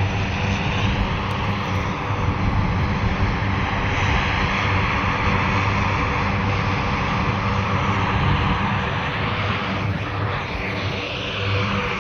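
Lockheed C-130 Hercules's four turboprop engines running steadily on the ground, a loud continuous drone with a steady low hum. The level dips briefly about ten seconds in.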